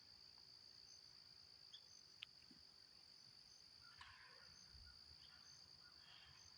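Near silence: faint, steady high-pitched insect trilling, with one small click about two seconds in.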